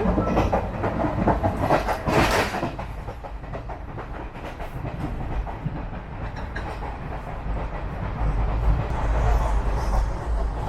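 A moving passenger train heard from inside an air-conditioned chair car coach: a steady low rumble of wheels on the track, with a brief louder rush of noise about two seconds in.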